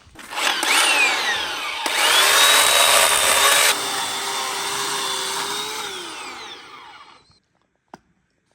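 A small electric motor spins up, runs steadily at high speed for a few seconds, then winds down, its whine falling in pitch as it stops. A single click follows near the end.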